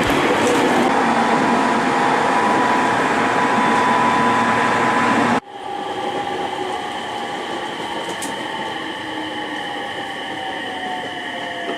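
Train running noise, a loud, even rush that cuts off abruptly about five seconds in. A quieter stretch follows, with steady whining tones and a slowly falling whine near the end.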